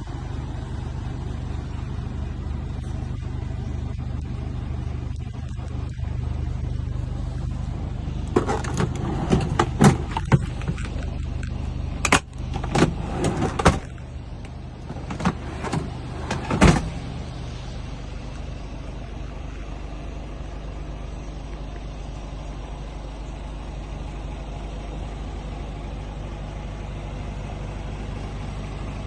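Scania R450 truck's 13-litre straight-six diesel idling steadily. A run of sharp clicks and knocks comes about a third of the way in and lasts several seconds.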